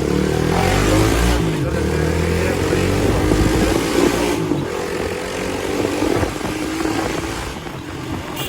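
Hero Xpulse 200's single-cylinder engine running loudly through an aftermarket exhaust as the bike is ridden, its note rising and falling with the throttle.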